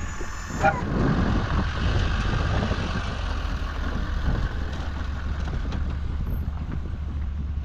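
A vehicle engine running steadily, with a low drone, while plowing snow.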